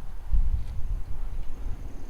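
Wind buffeting the microphone of a moving bicycle, a low, uneven rumble that rises and falls.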